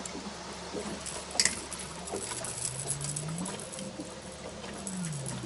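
A distant motorboat engine humming low, its pitch rising and later falling as the throttle changes, with light clicks and taps close by and one sharp click about a second and a half in.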